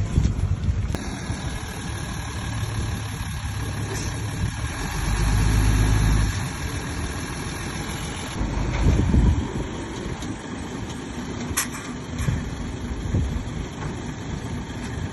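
Bulldozer's diesel engine running steadily, swelling louder twice, about five seconds in and again around nine seconds. A single sharp click comes near the end.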